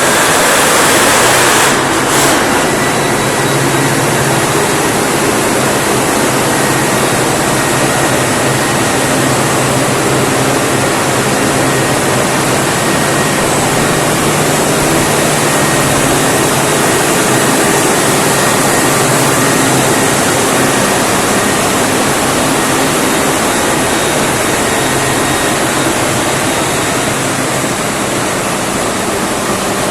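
Mitsubishi 16-cylinder V diesel generator set running steadily and loudly, a dense hiss over a low engine hum, with a brief louder rush about two seconds in.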